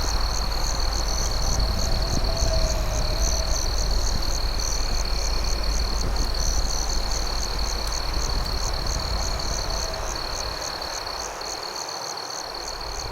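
Crickets calling at night: a continuous high trill overlaid with rhythmic chirps about four a second, over a low steady rumble that eases off near the end.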